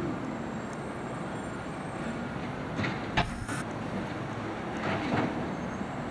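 Garbage truck running at idle with metal clanks and knocks, including a sharp bang about three seconds in.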